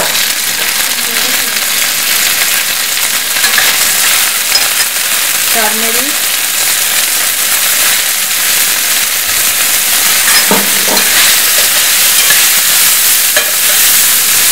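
Sliced onions, green peas and curry leaves sizzling steadily in hot oil in a stainless steel pan, frying the base for a potato masala stuffing. A spatula stirs through them near the end.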